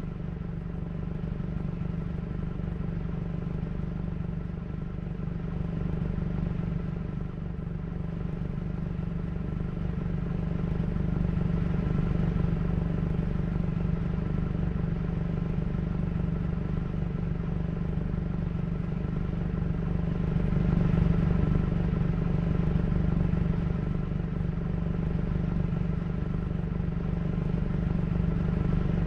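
Motorcycle engine running steadily at an even pitch, growing slowly louder.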